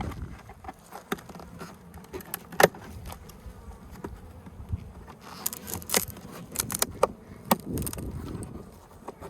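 Honeybee colony buzzing steadily from its opened nest, with scattered sharp clicks and knocks over it, the loudest about two and a half seconds in.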